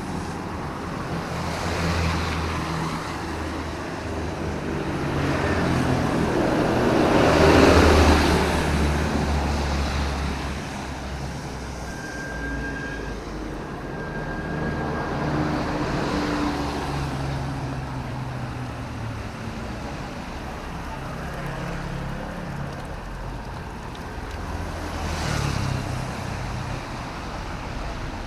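Road traffic on a wet city road: engines running and tyres hissing as vehicles pass one after another, the loudest passing about eight seconds in.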